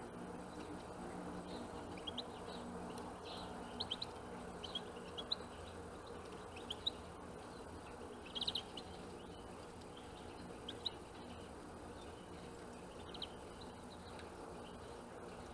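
Small birds giving short, high chirping calls, scattered and irregular, with a cluster about halfway through. A steady low hum runs underneath.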